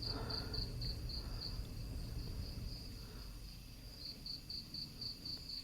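Crickets chirping faintly in a steady high pulsing rhythm, about three to four chirps a second, which pauses in the middle and then starts again.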